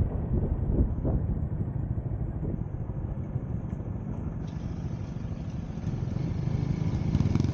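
Motorcycle engine running on the road with wind and road rumble, growing louder toward the end.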